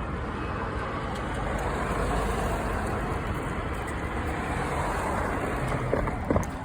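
Road traffic passing, a steady rush of vehicles that swells and eases, heard from a moving bicycle, with a couple of short knocks near the end.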